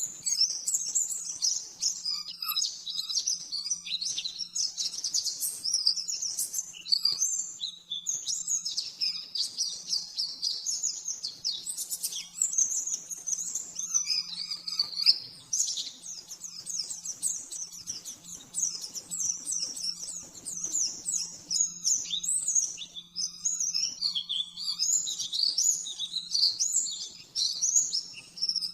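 White-eye (pleci) singing a continuous, rapid, high-pitched twittering song of quick chirps strung together with hardly a pause. A faint steady low hum runs underneath.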